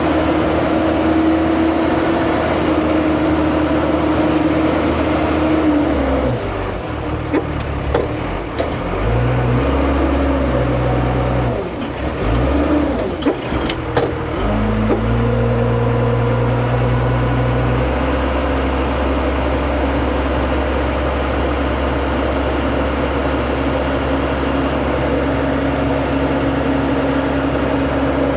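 Heavy diesel earthmoving machine running under load, its engine note dropping and changing pitch between about six and fifteen seconds in as the load shifts, with a few sharp clanks and knocks, then settling back to a steady drone.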